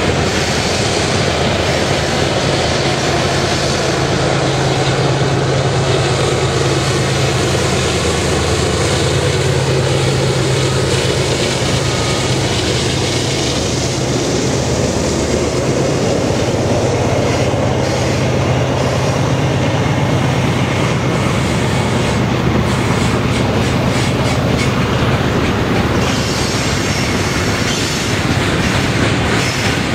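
Freight cars of a long BNSF train rolling past on a mountain grade: steady rumble of steel wheels on rail with clickety-clack over the joints and a continuous low hum.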